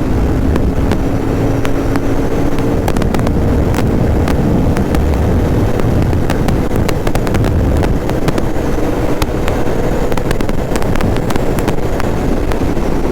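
Motorcycle engine running steadily on the move, with wind buffeting the microphone and scattered sharp clicks.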